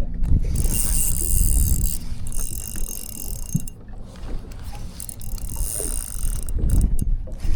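Fishing reel being cranked in stretches of winding with short pauses, its gears and ratchet ticking as line is retrieved on a hooked fish. A steady low rumble runs underneath.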